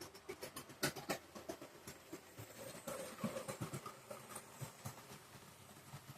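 Model train running on layout track: a string of faint, irregular clicks of wheels over the rail joints.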